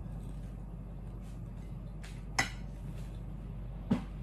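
A person chewing a mouthful of food at close range, with two short sharp wet eating sounds about two and a half and four seconds in, over a steady low hum.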